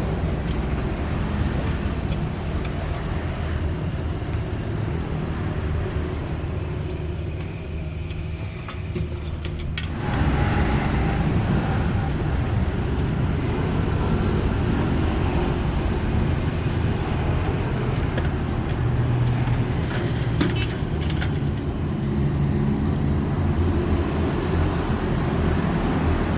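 Cat 305.5E2 mini excavator's diesel engine running steadily, easing off for a few seconds and then picking up sharply again about ten seconds in. A few short knocks come about twenty seconds in.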